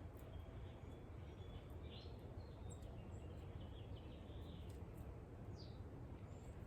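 Steady low background rumble with faint, scattered short chirps of small birds.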